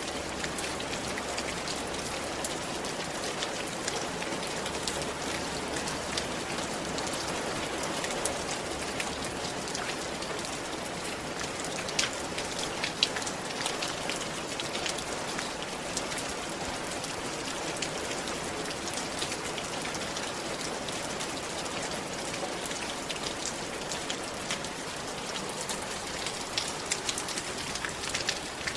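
Steady rain falling on a roof: an even hiss of rainfall with many individual drops tapping sharply, a few louder taps scattered through.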